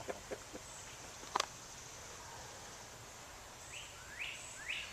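A bird calls in a quick series of short rising chirps, about two a second, near the end, over a steady high hiss. A few soft clicks and one sharp tap come in the first second and a half.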